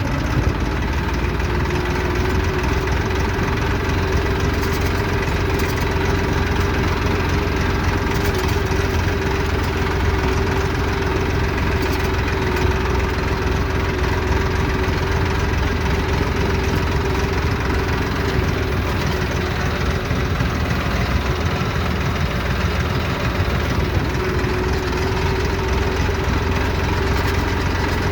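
Tractor's diesel engine running steadily at a constant speed, with a continuous droning tone over its low rumble.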